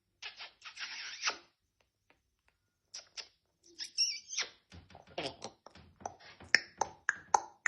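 Pet parrot making non-word noises: a breathy, hiss-like sound near the start, then a few short high whistles, then a quick run of sharp clicks mixed with brief squawky calls toward the end.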